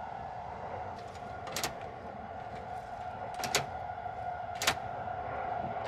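Inside the Sunrise Seto sleeper train while it is moving: a steady hum over a low rumble. Three sharp clicks come through it, about a second and a half in, halfway through, and the loudest one near the end.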